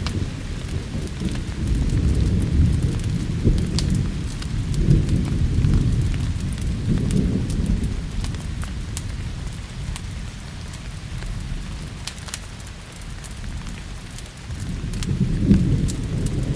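Rolling thunder rumbling low over steady rain, swelling during the first half and again near the end, with scattered sharp crackles of a wood fire.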